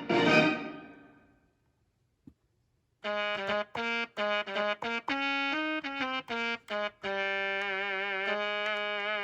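Akai MPK Mini Play MK3 keyboard playing its built-in sounds: a struck sound dies away, then after a short pause a single-line melody of short notes, moving into held notes with vibrato.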